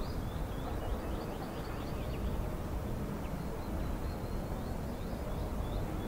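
Small birds chirping in a string of short, high calls over a steady low outdoor rumble.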